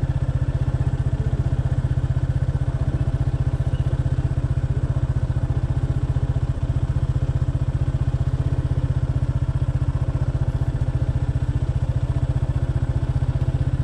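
Motorcycle engine running at a steady speed, its even exhaust pulses holding one pitch with no revving.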